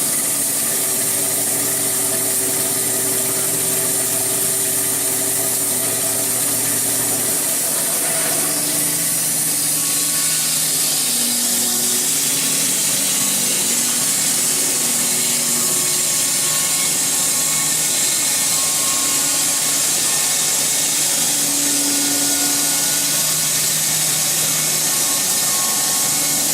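SAWSPEC 660 narrow-blade bandsaw mill running steadily and sawing through a log, a constant hiss over the machine's drive hum. The pitch of the drive shifts a few times as the cut goes on.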